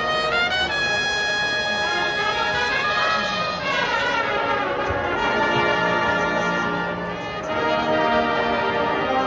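Marching band brass playing: trumpets and trombones sounding held chords, with quick rising runs around the start.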